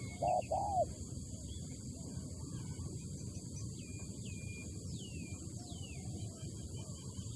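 Spotted dove (tekukur) cooing: a pair of low, arched coos in the first second, then it falls silent. Faint, high, falling whistles from other small birds follow over a steady high hiss.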